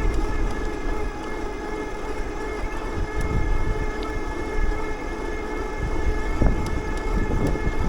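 Bicycle riding at speed: a steady whine of several held tones from the bike's drive, over wind rumbling on the microphone.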